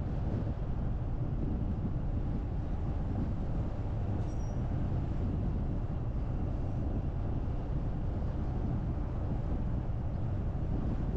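Steady low road and wind noise of a car driving along, with a brief faint high chirp about four seconds in.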